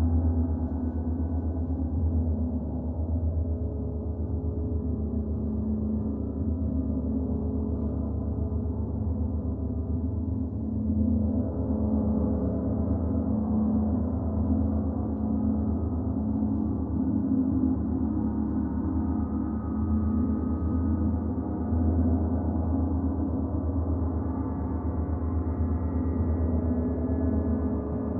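Gong ringing in a sustained, dense wash of many overlapping tones, with a strong low pulsing hum beneath, kept going at an even level without distinct separate strikes.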